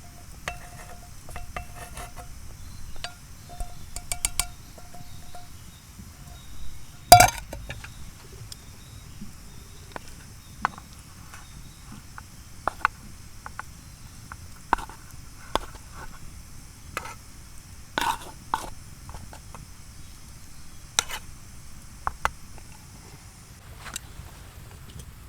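Eating utensils clinking and tapping against metal camp cookware at irregular intervals, with one louder knock about seven seconds in. A steady high hiss runs behind and stops near the end.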